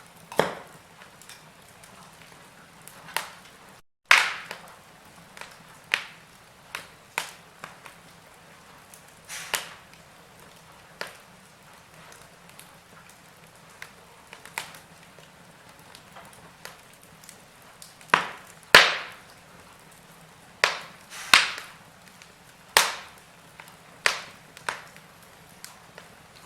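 Wood fire crackling: irregular sharp pops and snaps a second or two apart, with a few louder cracks about two-thirds of the way through.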